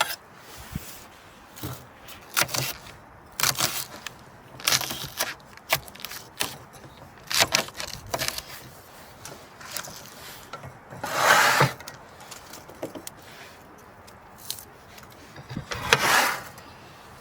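A string of short clicks, knocks and scrapes from objects being handled, with two longer, louder rustling swishes, one about eleven seconds in and one near the end.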